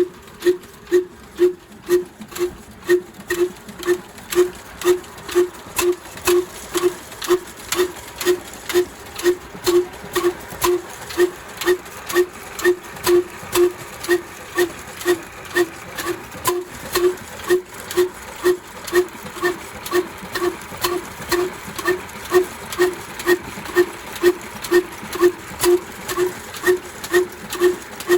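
Old single-cylinder 'black' diesel engine of a flour mill running slowly and evenly, with a steady beat about twice a second and sharp mechanical clicks.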